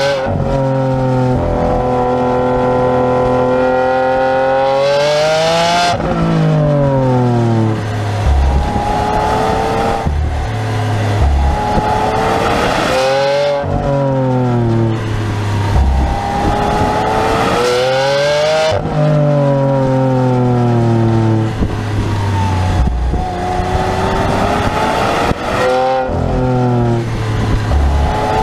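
Lamborghini Aventador's V12 engine accelerating hard, its pitch climbing through each gear and falling sharply at each of several quick upshifts.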